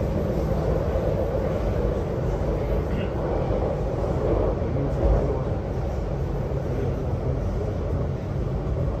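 MTR Kwun Tong Line C-Train in motion, heard from on board: a steady running rumble of wheels and traction equipment, with a brief louder bump about five seconds in.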